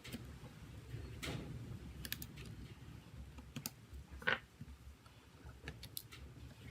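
Irregular small clicks and taps, with one sharper click about four seconds in: hand tools working on a smartphone's casing and parts.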